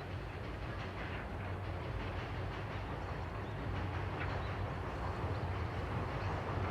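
JR 185 series electric multiple unit running along the line, a steady rail rumble that slowly grows louder.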